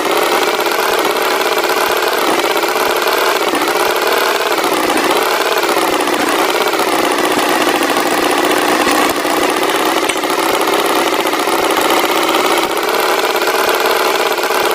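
Tractor engine sound effect running steadily, its pitch wavering slightly up and down.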